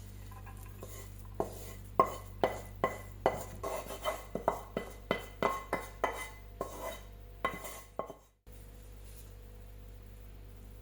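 A kitchen utensil knocking and clinking against a dish or pan, a run of about twenty sharp, ringing taps at roughly three a second that cuts off abruptly near the end, over a steady low hum.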